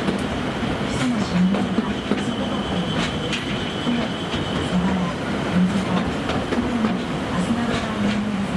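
Akasawa Forest Railway narrow-gauge train running, with the diesel locomotive's engine humming steadily and scattered clicks of the wheels over rail joints. About three seconds in comes a brief thin wheel squeal.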